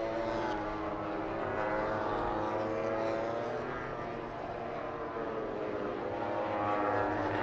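MotoGP racing motorcycle engines at high revs, their pitch repeatedly rising and falling, with more than one engine heard at once.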